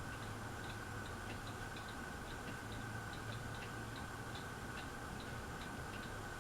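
Harbor Breeze Aristocrat ceiling fan running on medium speed: a steady low hum with a light, regular clicking, about three clicks a second.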